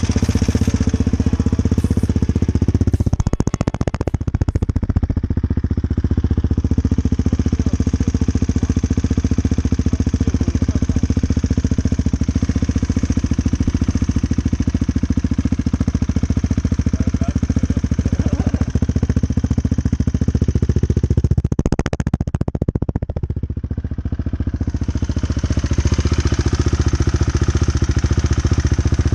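Husqvarna 701's single-cylinder four-stroke engine idling loudly through an Akrapovic exhaust with the dB killer removed, its first run after the refit. The throttle is blipped twice, a few seconds in and again about two-thirds of the way through.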